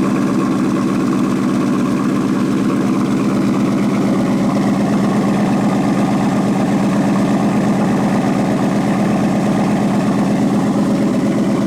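2019 Ford Mustang GT's 5.0-litre V8 idling steadily through a freshly fitted AWE Touring aftermarket exhaust, still at its raised cold-start idle speed.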